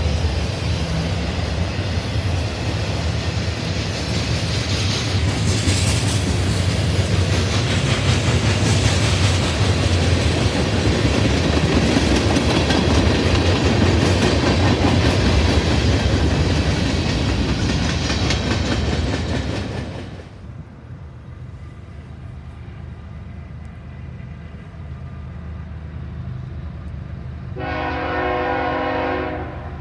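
A train passing close by: the loud, steady rumble and roar of wheels on the rails fades away sharply about two-thirds of the way through. Near the end a locomotive horn sounds once, for about two seconds.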